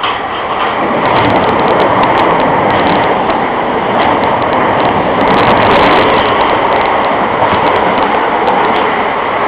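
Gatwick Express electric train passing close by at speed: a loud, steady rush of wheels on the rails that comes up suddenly at the start, with sharp clicks and clatter throughout. No horn is sounded.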